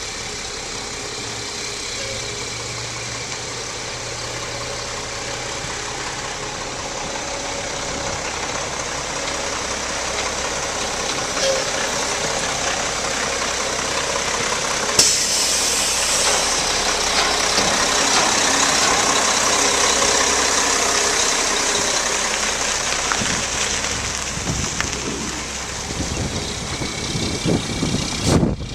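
Diesel engine of a 2007 Mack LE613 refuse truck running steadily. Its level rises gently toward the middle, and about halfway through a sudden loud hiss starts and fades over a few seconds. A few low thumps come near the end.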